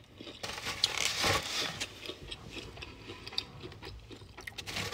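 Close-up chewing and crunching of crispy fried chicken, with a louder crunching burst about a second in and small wet mouth clicks after it.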